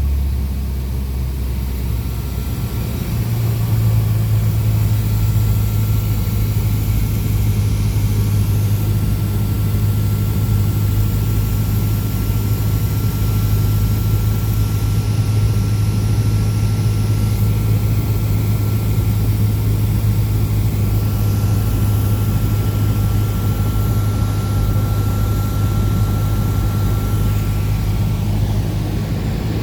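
Cessna 172's piston engine and propeller droning steadily in flight; about three seconds in, the engine note steps up in pitch and gets louder as power is added, then holds.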